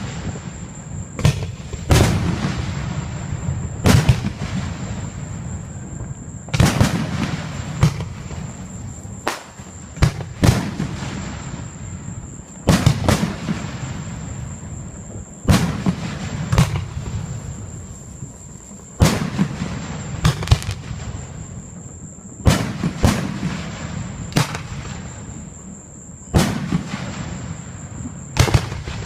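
Aerial fireworks display: a string of loud bangs, one every one to three seconds, each followed by a long echoing fade.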